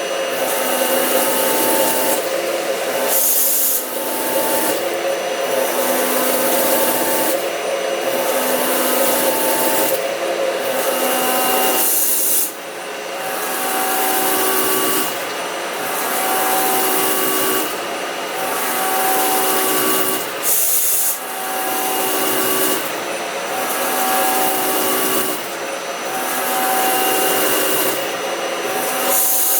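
Machine tool cutting metal: a steady scraping noise with several steady whining tones, breaking off briefly in the highs every second or two.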